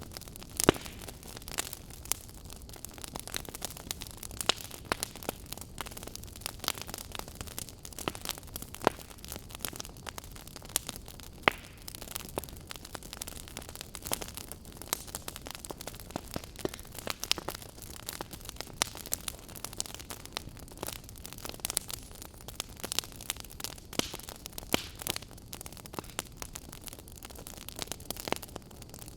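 Wood fire burning in a fireplace, crackling: frequent irregular sharp pops over a steady low hiss of flames.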